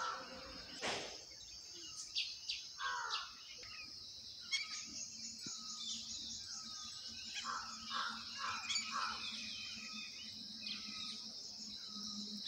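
Wild birds calling outdoors: short chirps and down-slurred calls at irregular intervals, over a steady high-pitched drone. A brief rushing noise comes about a second in.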